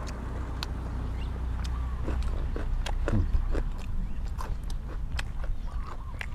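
A person biting and chewing food, with many short, sharp mouth clicks at an irregular pace.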